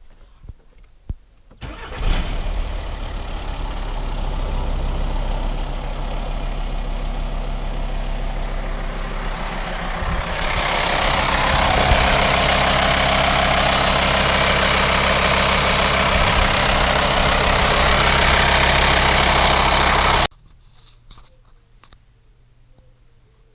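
VW Transporter T5's 2.5 TDI five-cylinder diesel engine started and idling steadily. About halfway through it gets louder with more hiss. It cuts off suddenly near the end.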